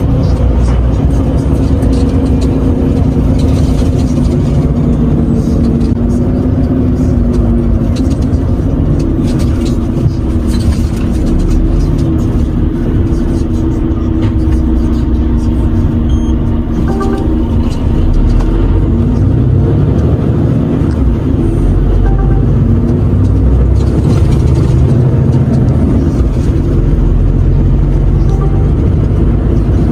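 Renault truck's diesel engine running while driving, with road and tyre rumble, heard from inside the cab. The engine note drifts slowly up and down with speed.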